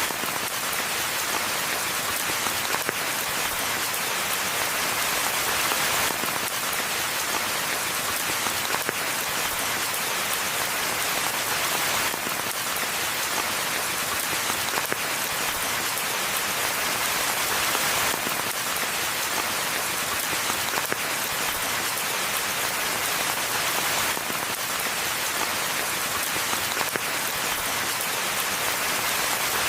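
Steady rainfall in a forest, an even, unbroken hiss of many drops.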